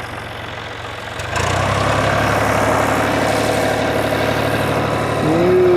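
Diesel tractor engine idling, then throttled up about a second and a half in and running louder and steadily as the tractor pulls uphill.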